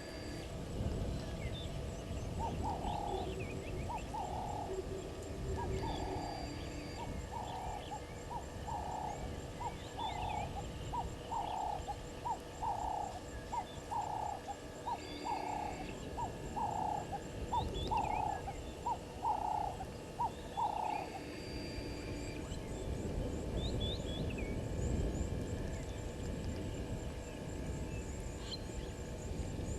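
An animal gives a run of short calls, about one a second, that stops about two-thirds of the way through. Short higher bird chirps come in now and then, over a steady high thin tone.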